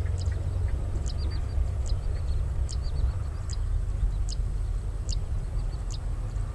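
Low, steady rumble of a distant passenger train running along the track. Over it, a bird gives a short, high, falling call about every 0.8 seconds.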